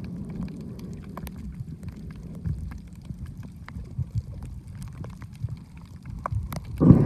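Muffled water noise from a camera in the water while snorkeling: a low, steady rumble with scattered faint clicks, swelling into a louder rush of water just before the end.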